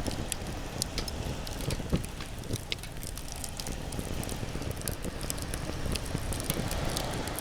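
Wood campfire crackling and popping with irregular sharp snaps, over a steady low rumble.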